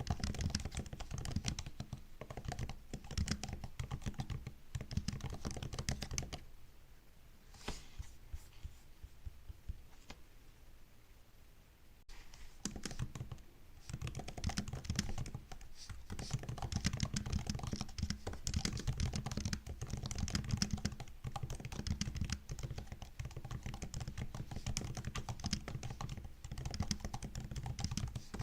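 Typing on a MacBook's built-in keyboard: a dense, rapid run of key clicks that stops for about five seconds, from roughly six seconds in, then picks up again and runs on steadily.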